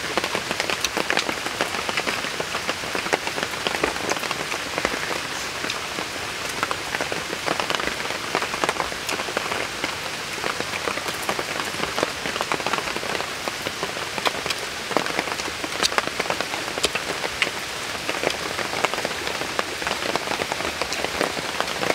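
Rain falling steadily on forest leaves: an even hiss dotted with many separate sharp drop hits.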